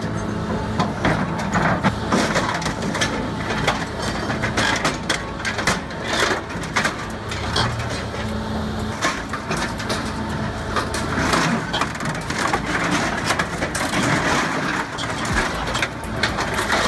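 Heavy machine's engine running under load with repeated crushing and cracking as material is broken apart.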